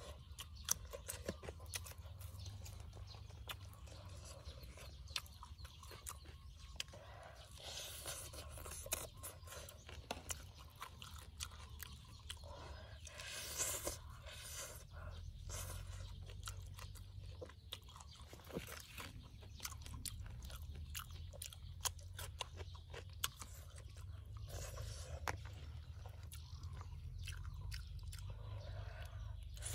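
Close-up chewing and crunching of crispy fried fish, with many short sharp crackles as the crust is bitten.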